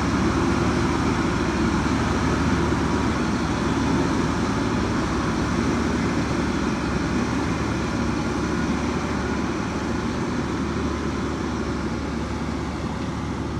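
Heavy diesel earthmoving machinery running steadily with a dense rumble, easing off slightly toward the end.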